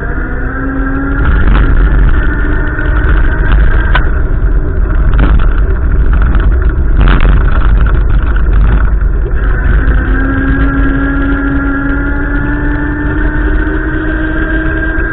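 Wind buffeting the microphone with a heavy low rumble, over a road vehicle's engine running. From about two-thirds of the way in, the engine's pitch rises slowly as it accelerates.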